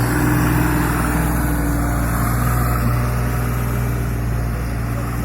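Deutz-Fahr Agrolux 50 tractor engine running steadily at an even speed, with a deep, unchanging hum.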